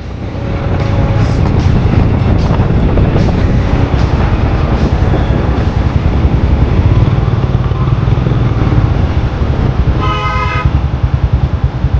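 Royal Enfield Himalayan 411's single-cylinder engine running loud through an aftermarket Red Rooster exhaust, with its Powertronic piggyback ECU just fitted. A short horn honk comes about ten seconds in.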